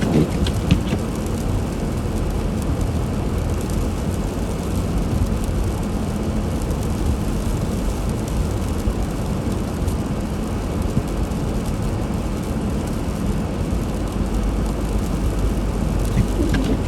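Car driving on a snowy road: a steady low rumble of engine and tyres, with a few faint clicks near the start and near the end.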